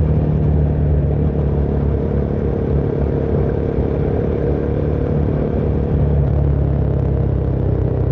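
Motorcycle engine running at a fairly steady speed during a ride, heard from the rider's position with a haze of road noise underneath.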